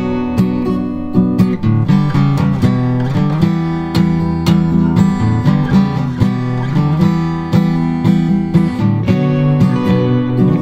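Background music: acoustic guitar playing steadily, with plucked and strummed notes.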